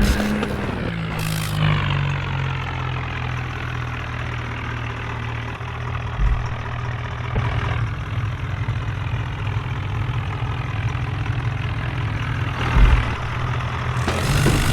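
Tractor diesel engine running steadily after its revs drop in the first second or so, with two brief low thumps midway and near the end.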